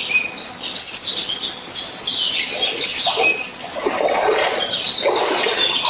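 Birds chirping in quick, high calls, with several short, lower noises from about two and a half seconds in.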